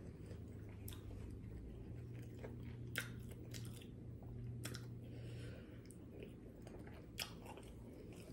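Quiet chewing of breaded buffalo boneless chicken wings, with a few short sharp clicks and mouth smacks. A low steady hum sits underneath and stops about five seconds in.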